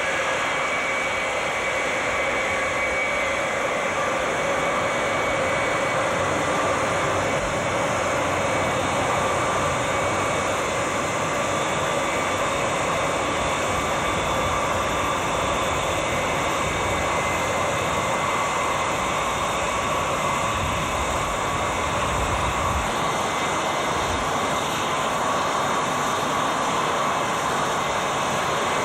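Jet airliner engines running steadily: an even rushing noise with a steady high whine laid over it.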